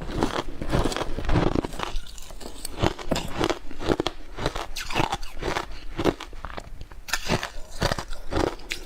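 Ice being bitten and chewed close to the microphone: a rapid, irregular run of crunches throughout.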